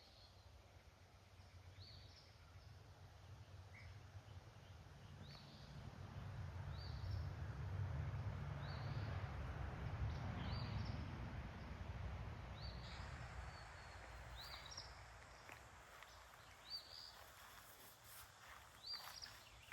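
A bird repeating a short, high chirp every second or two, over a low rumbling noise that swells in the middle and then fades.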